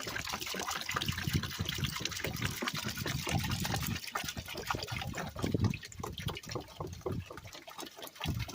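Muriatic acid being poured into a bin, a steady splashing pour with brief lulls about four seconds in and near the end.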